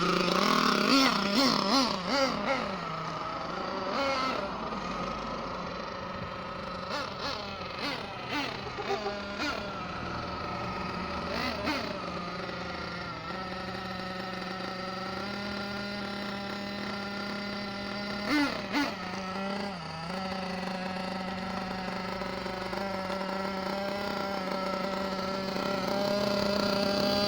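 Small two-stroke nitro engine of an Ansmann Virus 21 RC buggy running. It revs up and down in short blips several times in the first dozen seconds and once more later, then runs steadily and grows louder near the end.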